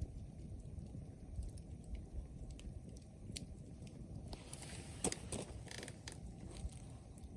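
Wood fire crackling, with scattered small pops over a steady low noise of the flames; a louder flurry of hissing, snapping crackles comes about four to six seconds in.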